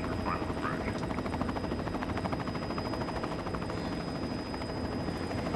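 Helicopter running steadily, its rotor beating in a rapid, even chop with a thin high whine over it.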